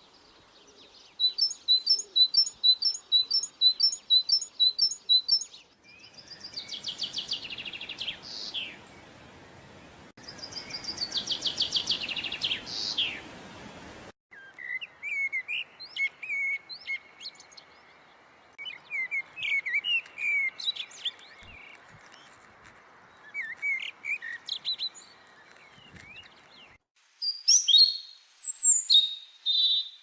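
Recorded birdsong from small birds, in several clips that change abruptly. First comes a run of about ten high, evenly spaced chirps, then two trills, then scattered chirps over a steady hiss, and near the end a burst of varied calls.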